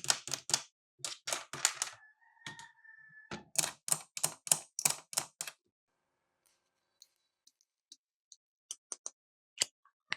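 Buttons of a plastic toy cash register pressed in quick runs of clicks, with one held electronic beep about two seconds in. The second half is mostly quiet, with a few scattered clicks near the end.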